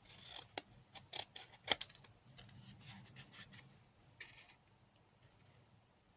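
Scissors cutting a shape out of card: a quick run of sharp snips in the first two seconds, then softer cuts and the card rustling.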